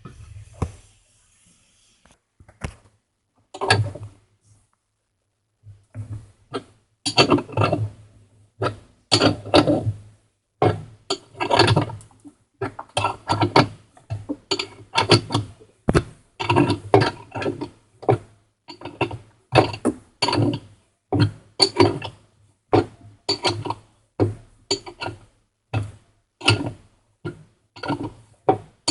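Repeated metallic clinks and knocks of hand tools working on a washing machine's metal parts during disassembly. Short strokes come about one to two a second from about six seconds in, after a few scattered knocks.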